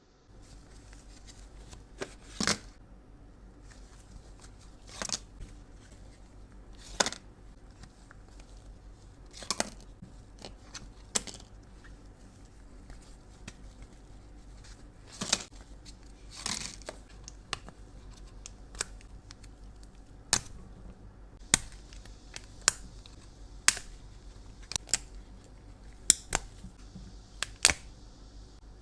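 Sharp clicks and taps of small cosmetic cases and tools being handled, irregular and a few seconds apart, coming closer together near the end, over a faint hiss.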